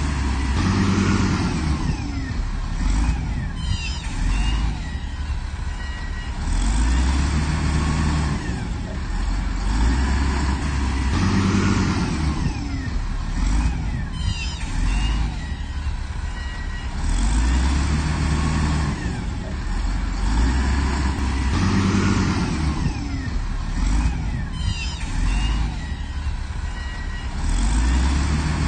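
Heavy diesel engine of an earthmoving machine running under load, revving up and easing off in a repeating cycle about every five seconds. Short bursts of metallic clatter come in about every ten seconds.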